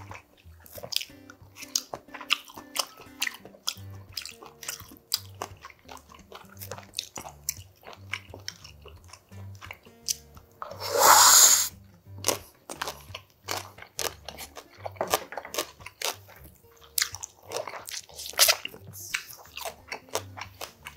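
Close-up chewing and biting, with many small crunchy, wet clicks, and one loud slurp about halfway through. Soft background music with a low steady beat runs underneath.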